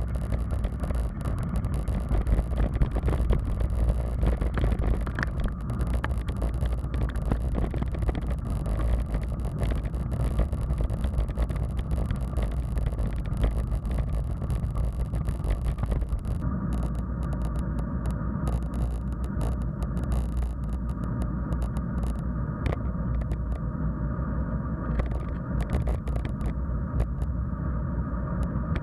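Wind rumbling on the microphone of a camera riding along on a moving bicycle, with scattered clicks and rattles from the bike over the path surface. The sound loses its top end at about the middle.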